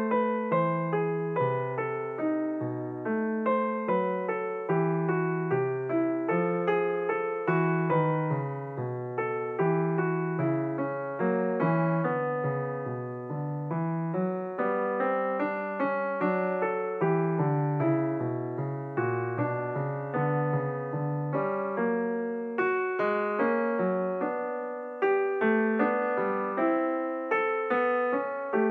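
Background piano music: a steady flow of single struck notes and chords, each note fading after it is played.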